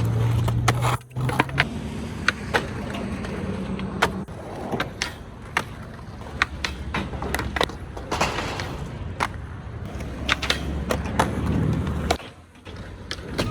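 Skateboard rolling on concrete, its wheels making a steady rumble, with many sharp clacks and knocks of the board striking the ground; it goes quieter near the end.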